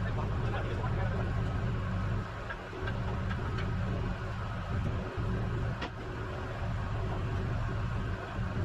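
Rollback tow truck's engine running steadily, with one sharp click about six seconds in.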